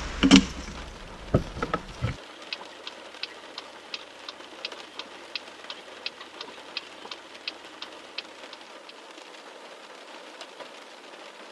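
Steady rain, with a few knocks in the first two seconds, then a quick, even ticking at about three ticks a second for several seconds that stops about two-thirds of the way through.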